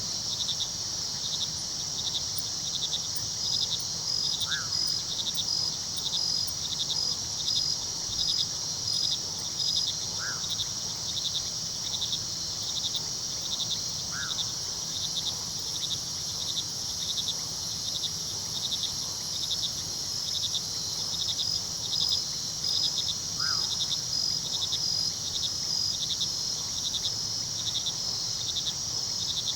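Night chorus of crickets: a steady high trill with regular chirps pulsing a few times a second over it, above a low steady rumble of river water. A short, single call sounds four times against it.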